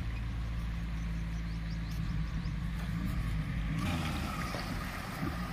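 Maruti Gypsy 4x4 engine running with a steady low hum that rises a little after about two seconds. About four seconds in the sound changes abruptly to a broader hiss with a thin steady tone.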